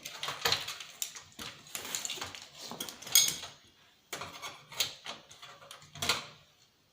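Irregular clicks, knocks and clatter of plastic parts and a circuit board being handled as the TV's main board is worked free of its plastic standoffs.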